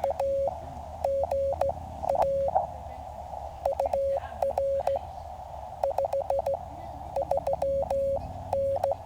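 Morse code (CW) from the QCX mini transceiver: a single steady tone keyed on and off in dots and dashes. It plays over the receiver's band of hiss.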